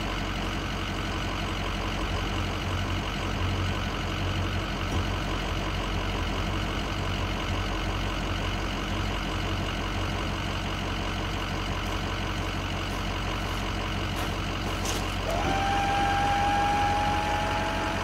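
Ford F350 dually pickup's engine idling steadily. About fifteen seconds in, a steady whine with a slight rise in pitch joins it and holds.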